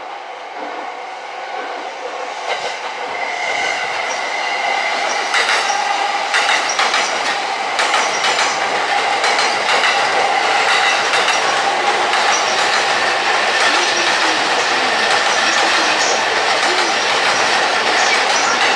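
JR East E657 series electric limited express train running through the platform, growing louder over the first few seconds and then holding steady. Its wheels click over the rail joints, with a steady squeal over the running noise.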